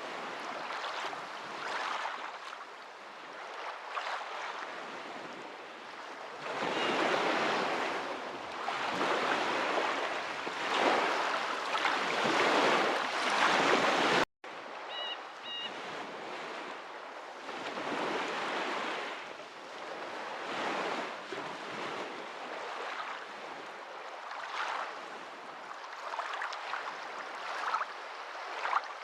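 Waves washing in, a rushing water sound that swells louder through the middle and eases off again. It cuts out for an instant about halfway through, and two faint short high chirps follow just after.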